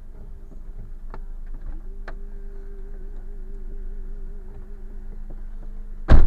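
Car interior noise picked up by a dashboard camera: a steady low drive hum with a wavering whine through the middle and a few light clicks, then one loud sharp thump near the end.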